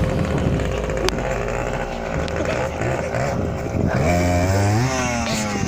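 Dirt bike engine running, then revving about four seconds in, its pitch rising in a couple of climbs.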